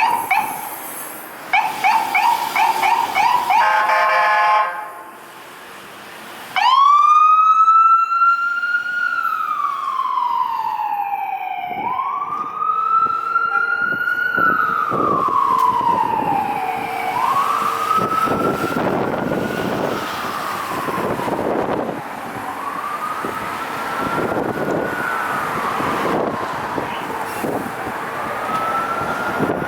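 Emergency vehicle siren: a few seconds of fast pulsing siren tones, a brief lull, then a wail siren cuts in, sweeping up and slowly down about every five seconds and growing fainter as the vehicle moves away, over traffic noise.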